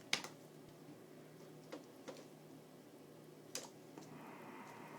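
A few sharp, irregular clicks of keys or buttons on an ultrasound machine's console as the scan image is adjusted, the first the loudest, over quiet room tone. A faint steady hum comes in near the end.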